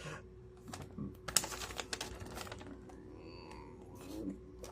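Hands handling the Lego set's instruction booklet and packaging: a run of quick, light clicks and rustles, densest between about one and two and a half seconds in.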